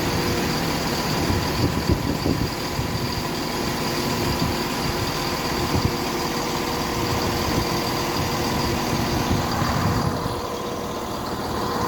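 Class 37 diesel-electric locomotive's English Electric V12 engine running steadily as the test train passes, with a few sharp wheel knocks on the rails. The sound eases a little near the end.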